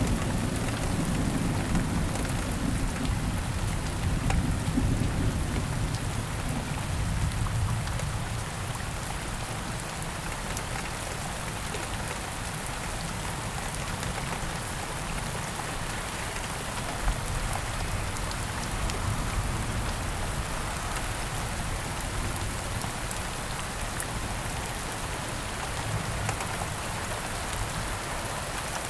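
Steady rain falling, with a low rumble of thunder that fades away over the first several seconds.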